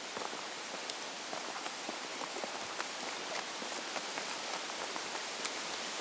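Cottonwood leaves rustling in the wind: a steady hiss full of small, quick clicks.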